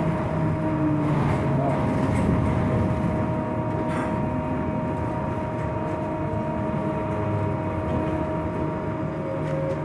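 Inside a moving Scania trolleybus: continuous running rumble and rattle of the bus, with a steady high whine over it. The ride is noisy, which the rider puts down to the bus being worn.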